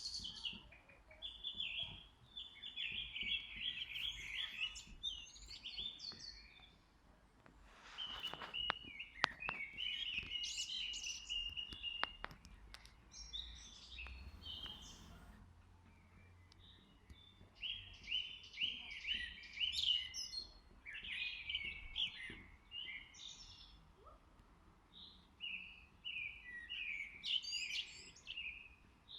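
Songbirds singing in bursts of rapid chirping phrases, with short pauses between phrases.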